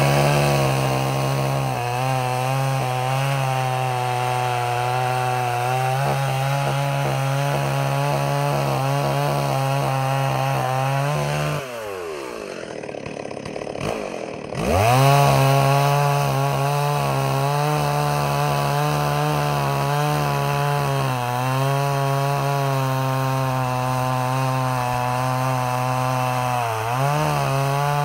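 Stihl 038 Magnum two-stroke chainsaw running at full throttle through wood, its pitch sagging slightly under load. About twelve seconds in the throttle drops back for a couple of seconds, then the saw revs up and cuts again.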